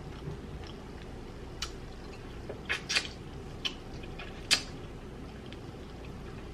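Chicken-wing eating sounds: a few scattered soft mouth clicks and smacks while chewing and pulling meat off the bone, over a steady low background hum.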